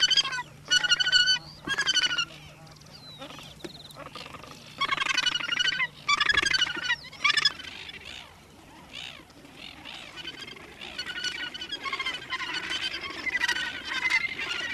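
Australasian gannets calling in a breeding colony: loud repeated calls in bursts, several in the first two seconds and more a few seconds later, then overlapping calls from several birds toward the end.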